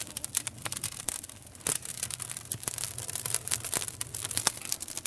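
Wood fire crackling, with many irregular sharp pops and snaps over a steady low hiss.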